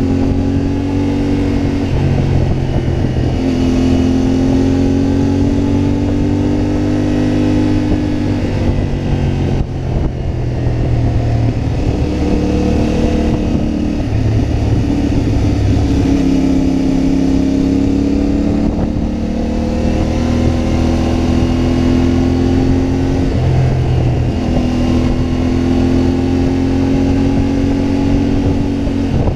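CfMoto MT450's parallel-twin engine running under way. Its note holds or climbs for a few seconds, then drops, about six times, as the throttle is opened and closed through the gears.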